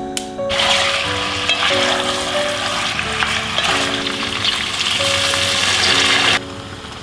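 Chicken wings sizzling loudly as they fry in a hot cast-iron pot and are stirred with a wooden spoon, after a single click of the gas hob's igniter at the start; the sizzle stops abruptly about six seconds in. Background music plays underneath.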